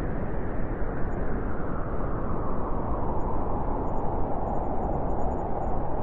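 Blizzard wind blowing hard and steadily, a deep rushing noise with a howling band in the middle range that grows stronger over the second half.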